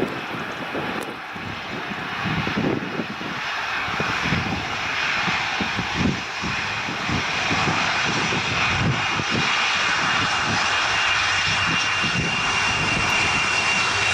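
Jet engines of a landing Boeing 747 freighter, growing louder over the first half and then holding steady, with a steady high whine over a broad rushing noise.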